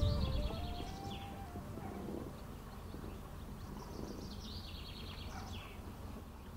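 A songbird singing two fast trilled phrases that step down in pitch, one right at the start and another about four seconds in, over a low steady rumble.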